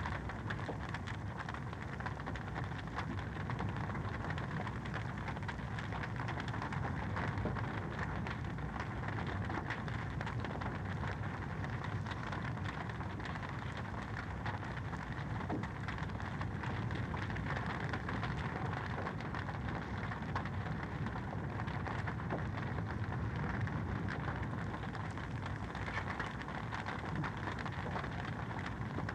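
Fireplace wood fire crackling steadily: a dense run of small crackles and pops over a low, even rumble.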